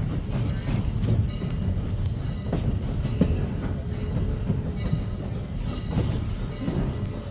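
Passenger railroad car riding on the rails: a steady low rumble with irregular clacks and knocks from the wheels and running gear.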